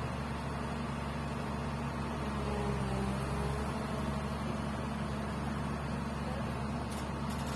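Komatsu PC200 hydraulic excavator's diesel engine running steadily, its pitch shifting and the sound rising a little about two to four seconds in.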